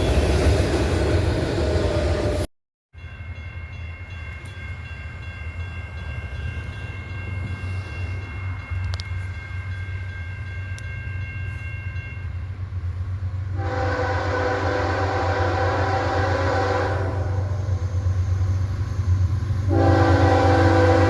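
A train passing close for the first couple of seconds; then, after a cut, the steady low rumble of an approaching diesel locomotive that grows louder. It sounds a multi-note air horn in two long blasts: one of about three seconds starting around 14 seconds in, and another starting just before the end.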